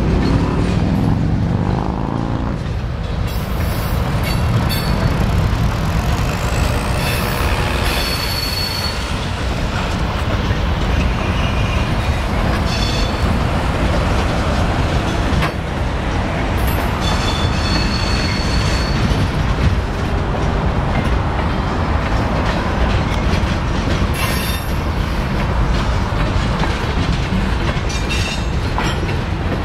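A freight train's cars rolling past on steel wheels, a steady heavy rumble and clatter on the rails, with short high-pitched wheel squeals several times.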